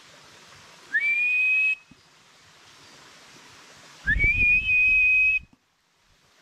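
Two loud whistled calls answering a man's shouts. Each slides up briefly and then holds one high note: the first lasts under a second, the second about a second and a half. The caller is an unseen forest creature taken for a bird. A low rumble runs under the second call.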